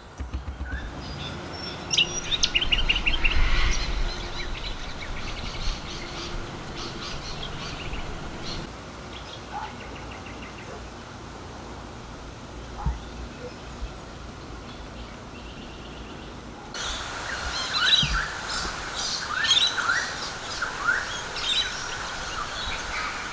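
Several birds calling and chirping: rapid chirps and short trills, busiest about two seconds in and again over the last few seconds, with some low rumble early on.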